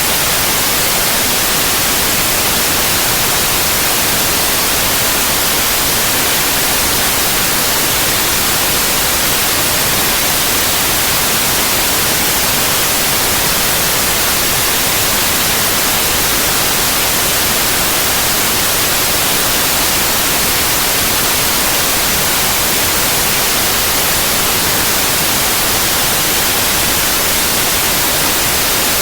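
Steady synthetic white noise: an even, unbroken hiss across the whole range, strongest in the high frequencies.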